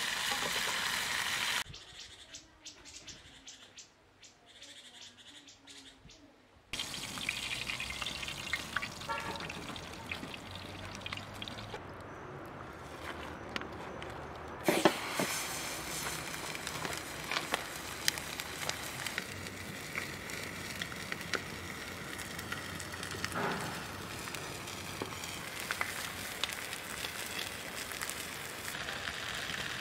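Salmon frying in a grill pan over a wood fire: a steady sizzle with fine crackles. The sound drops low for a few seconds near the start, and there is one sharp knock about fifteen seconds in.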